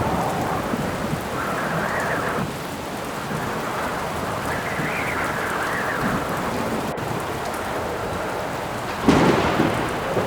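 Steady rain with gusting wind whose howl swells and fades, and a sudden clap of thunder near the end.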